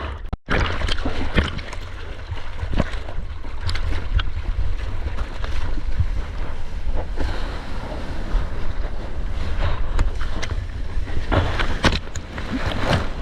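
Sea water rushing and splashing around a surfer, with heavy wind buffeting on the microphone making a steady low rumble. The audio cuts out briefly about half a second in.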